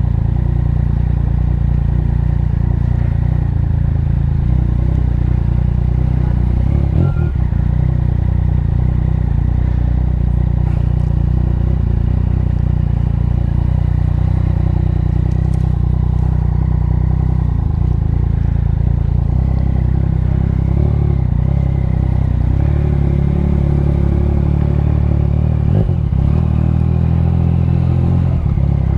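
Motorcycle engine running steadily while being ridden, its pitch shifting a little with the throttle.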